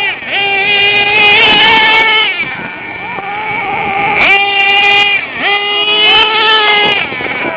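Small glow-fuel nitro engine of a radio-controlled truck revving hard in a high, whiny pitch. It climbs to full throttle and holds there for a second or two, then drops back, about three times: near the start, about four seconds in, and again just after five seconds.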